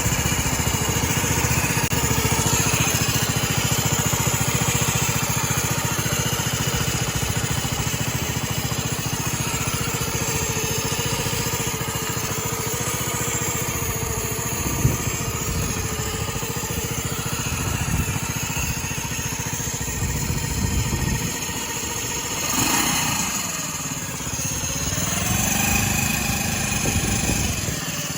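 Honda Super Cub 50's single-cylinder four-stroke engine, bored up to 88cc, running with the abnormal noise that began suddenly while riding. There is a sharp knock about halfway through, and near the end the engine speed drops and then picks up again.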